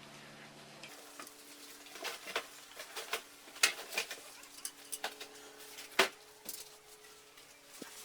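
Irregular metallic clinks and taps of hand tools against metal, with a sharper knock about six seconds in.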